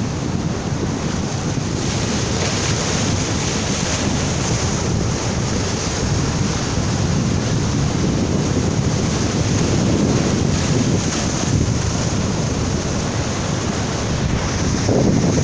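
Strong ocean surf breaking on a beach, a steady rush of waves, with wind buffeting the microphone.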